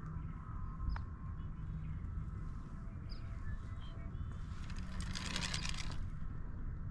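Outdoor ambience: a steady low hum with a few short bird chirps, and a brief rush of hissing noise about five seconds in.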